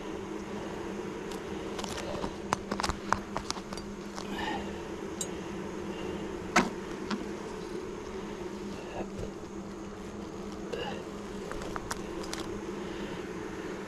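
Honeybees buzzing in a steady, even hum around an open hive, with a few sharp clicks and knocks in the first half.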